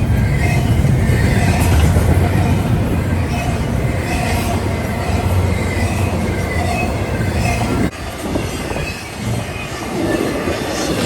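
A train running past close by: a heavy low rumble of wheels on rails, with short higher-pitched tones recurring about once a second. The level drops suddenly about eight seconds in.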